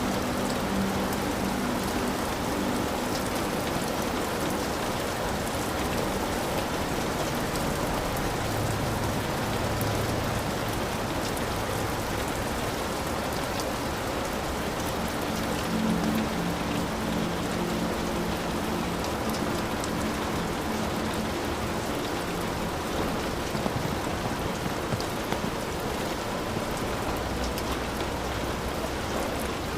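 Heavy rain falling steadily on a hut roof, a dense even hiss of drops. Faint low tones come and go near the start and again about halfway through.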